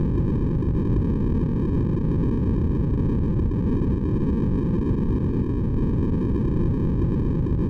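Steady sleep white noise, deep in tone: a constant even hiss weighted to the low end, without change or pause.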